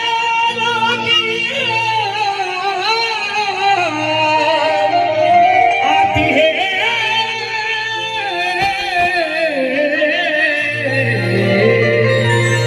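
A singer's high voice carrying a long wordless, wavering melodic line that slowly descends, over sustained low accompanying notes.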